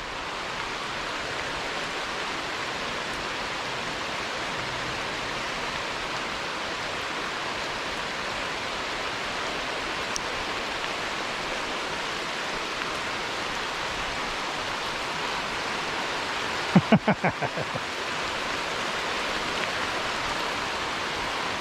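Heavy rain falling steadily in a quick downpour, mixed with the creek's flowing water. About seventeen seconds in, a brief cluster of several loud clicks.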